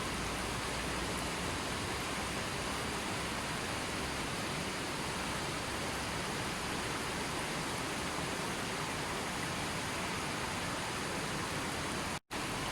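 Steady, dense rushing of water, an even noise with no distinct events, that cuts out for a split second near the end.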